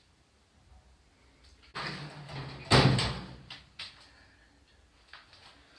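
A door being opened: about two seconds of sliding, rumbling noise with a sharp knock about halfway through.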